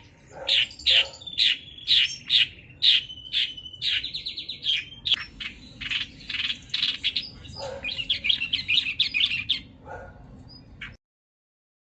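A pet bird singing: a quick run of sharp, high chirps and whistles broken by fast trilled passages, stopping suddenly near the end.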